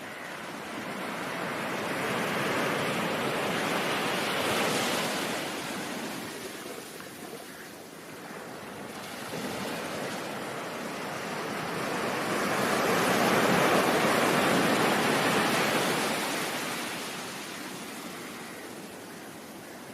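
Ocean surf: a steady wash of breaking waves that swells and eases twice, the second swell louder.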